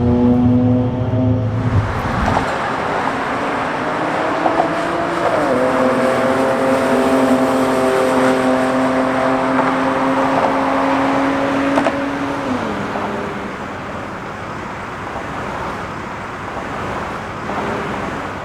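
1995 BMW E36 M3's straight-six exhaust through a Magnaflow muffler, running at steady revs over road noise. The engine note steps down twice, about five seconds in and again about halfway through.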